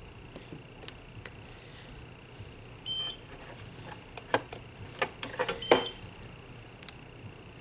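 Two short electronic beeps from a gel-nail UV/LED curing lamp, one about three seconds in and another near six seconds, with sharp clicks and taps of handling between them.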